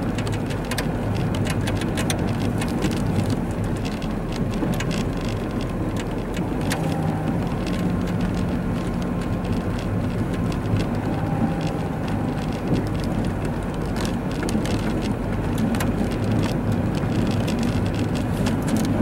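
Steady rumble of a car's engine, tyres and wind inside the cabin, driving slowly through a snowstorm, with a constant scatter of small ticks of wind-driven snow striking the car.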